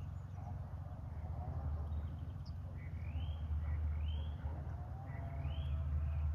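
Bird calls: a few arched notes that rise and fall, repeated about once a second from about three seconds in, over a steady low rumble.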